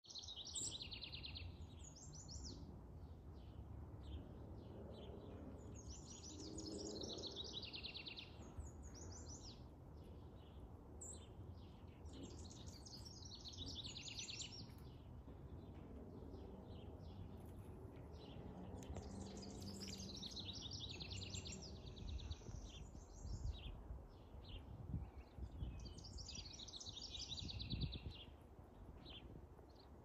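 Songbirds singing, short rapid trilled phrases repeating every few seconds, over a steady low background rumble; a few soft low thumps in the last several seconds.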